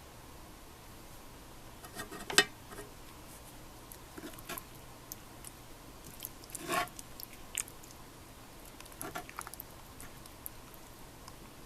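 Scattered light clicks and knocks of small objects being handled, with a sharp knock about two and a half seconds in and a short rattling cluster a little before seven seconds.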